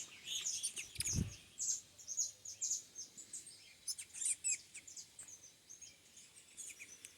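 Small songbird chirping with short, high notes repeated many times, a few of them quick falling whistles. A short low thump about a second in.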